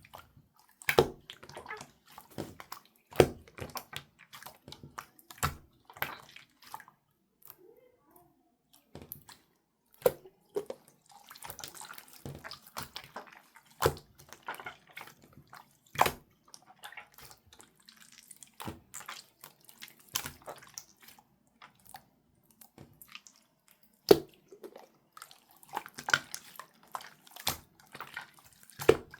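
Slime being pressed and squished by hand, giving irregular wet clicks and pops, some sharp and loud.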